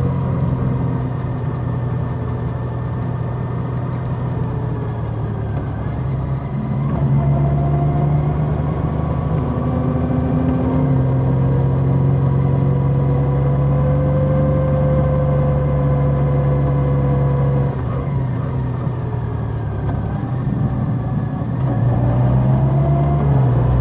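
Large motorcycle's engine running under way, its pitch holding steady and then rising with the throttle about seven seconds in and again near the end.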